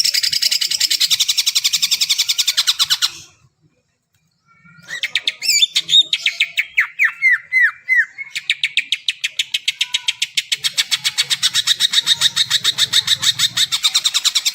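Cucak ijo (green leafbird) singing: a fast run of rapidly repeated high notes that stops about three seconds in, a second and a half of silence, then varied whistles with several falling notes, then another long fast run of repeated notes.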